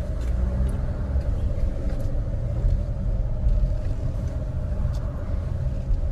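Car running, heard from inside the cabin: a steady low rumble with a steady hum above it.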